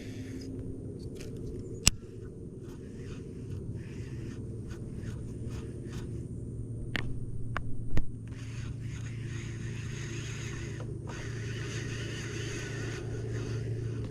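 Fishing reel being cranked as a fish is played from a kayak, with two sharp knocks, about 2 seconds in and near 8 seconds.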